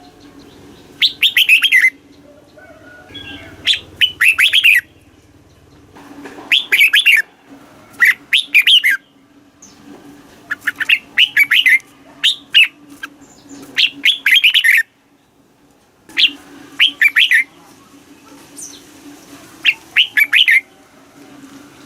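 Red-whiskered bulbul singing short, quick warbled phrases about a second long, repeated every second or two, over a faint steady low hum.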